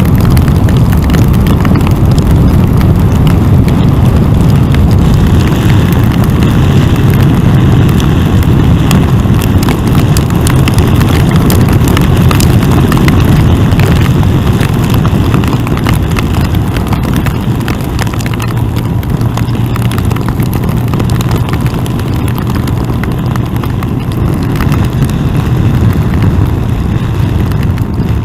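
Yamaha FJR1300 motorcycle's inline-four running at road speed under loud wind rush on the onboard microphone, with many sharp ticks of hail and rain striking. The roar eases slightly about halfway through, and the engine note then sounds steadier.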